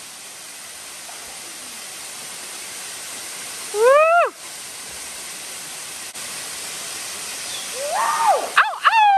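Steady rushing noise with an animal calling over it: one loud rising-and-falling call about four seconds in, then a quick run of calls near the end that finishes on a held note.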